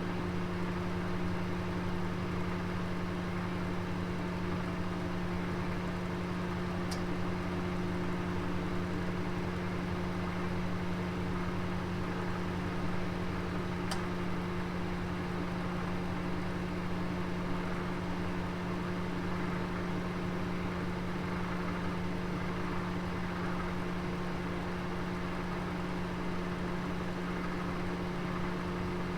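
Oven running: a steady hum over an even rushing noise, with two faint ticks about seven seconds apart.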